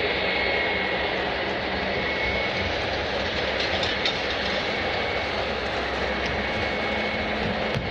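Airliner jet engines running, a steady roar with a faint high whine held through.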